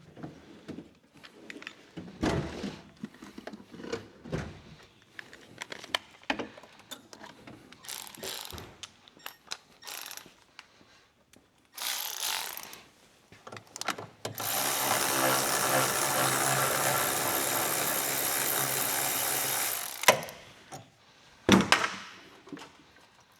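Scattered ratchet clicks and metal knocks while working on the exhaust manifold bolts, then a cordless battery ratchet runs steadily for about five seconds, loosening a manifold bolt. A few sharp knocks follow near the end.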